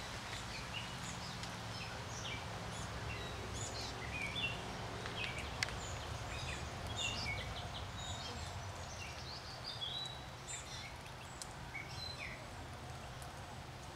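Several wild birds chirping, many short overlapping high calls, over a steady low background rumble.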